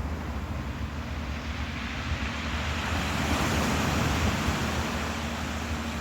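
Ocean surf washing in, with a swell that builds and fades through the middle, over wind rumble on the microphone. A faint steady hum comes in about halfway.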